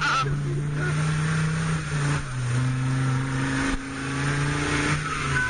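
Off-road 4x4's engine held at high revs while the vehicle is stuck in deep mud. The engine note is steady, steps up in pitch about two seconds in, and drops back near the end.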